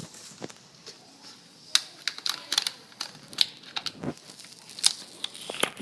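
Handling noise: light clicks and knocks at an uneven pace, a few to several each second.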